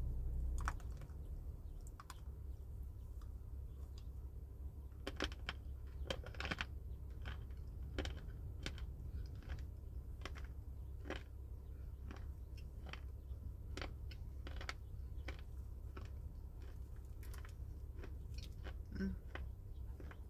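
Close-up crunching and chewing of crunchy dried fruit: irregular sharp crisp crunches, with a steady low hum underneath.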